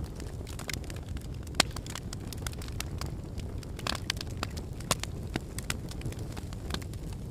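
Log fire crackling in a fireplace: irregular sharp pops and snaps over a low steady rumble of burning wood, with two louder pops and a brief hiss in between.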